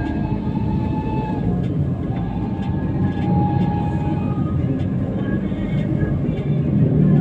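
Car cabin noise while driving on a wet road: a steady low rumble of engine and tyres, with scattered faint ticks. A held, pitched tone sounds twice over it, the second ending about four seconds in.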